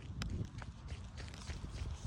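Footsteps of a person walking or running on the ground, over a low wind rumble on the microphone, with a sharp click about a quarter second in.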